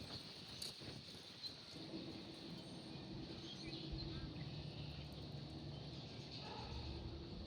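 Faint outdoor ambience: a few short bird chirps over a low steady hum that sets in about two seconds in.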